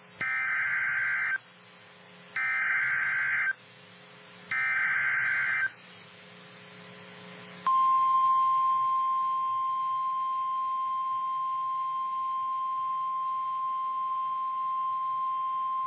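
Emergency Alert System signal on NOAA Weather Radio: three short bursts of SAME digital header data, about a second each and a second apart. After a pause comes the steady single-pitch warning alarm tone, held about eight seconds. Together they announce a flash flood warning.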